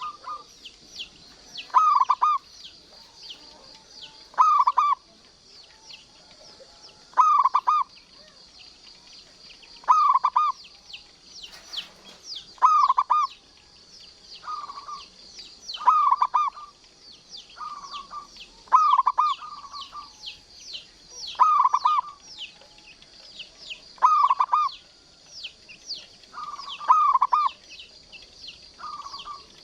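Zebra dove (local perkutut) singing its short staccato coo phrase over and over, about once every two to three seconds. Thin high chirping runs behind it throughout.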